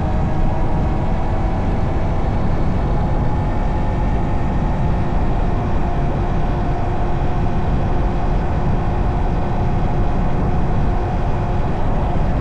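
Honda Monkey's small single-cylinder four-stroke engine running steadily while riding, under a heavy, rough low rumble.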